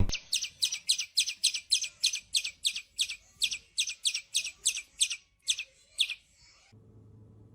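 A small bird chirping over and over: short high chirps, about three a second, that stop about six seconds in.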